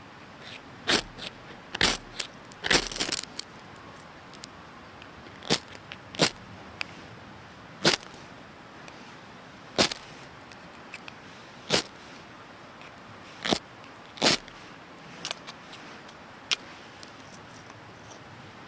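Wood fire crackling: sharp, irregular pops every second or two over a steady hiss, the loudest cluster about three seconds in.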